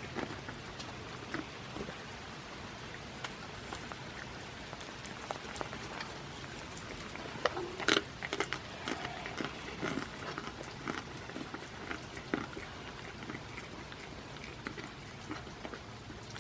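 Steady rain falling, with irregular drips and taps on the shelter; one louder sharp tap about halfway through.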